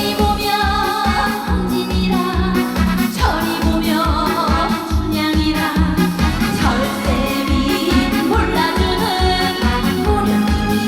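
Korean trot song performed live: a woman singing over pop-style accompaniment with a steady, regular beat.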